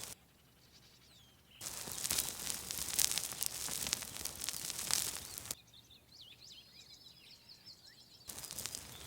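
Outdoor ambience spliced together with abrupt cuts. Faint bird chirps give way about one and a half seconds in to a dense crackling noise. Near the middle this cuts to songbirds chirping and trilling, and the crackling returns near the end.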